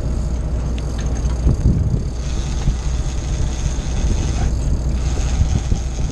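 Fishing boat's engine running steadily as a low rumble, with wind and water noise over it.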